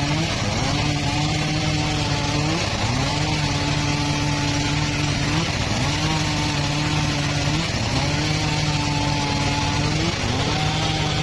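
Power saw running while cutting mahogany, its engine note dipping briefly and climbing back about every two and a half seconds.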